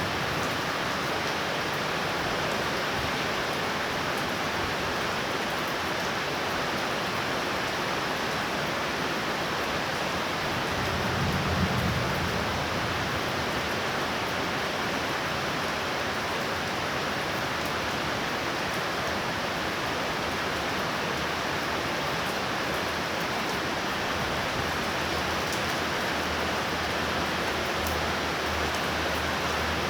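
Torrential rain falling in a steady, even hiss, with a brief low rumble about a third of the way in.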